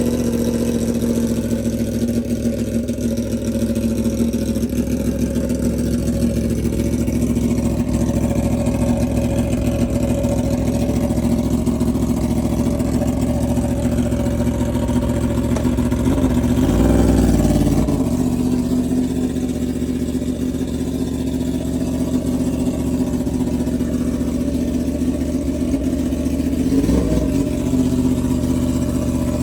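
Yamaha R1 inline-four motorcycle engine with a straight-pipe exhaust (no mufflers), idling steadily after a cold start. Two brief throttle blips interrupt it: one a little past halfway and a smaller one near the end.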